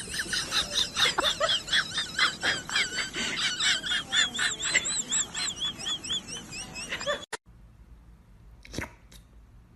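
Rapid high-pitched chirping, several short chirps a second, like a small bird, cutting off suddenly about seven seconds in; then a couple of faint clicks.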